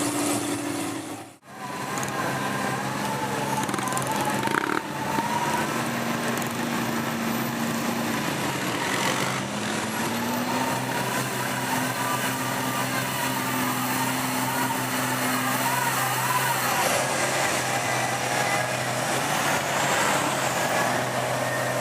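Diesel truck engine running steadily. The sound drops out briefly about a second in, and the engine note rises a little about ten seconds in.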